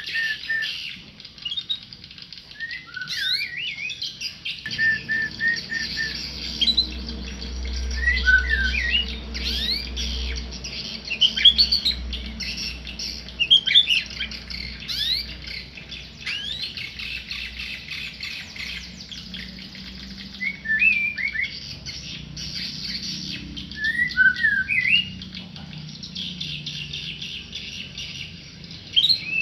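Tame murai, a white-rumped shama, singing in short whistled phrases and chirps with gaps between them, over a steady background hiss.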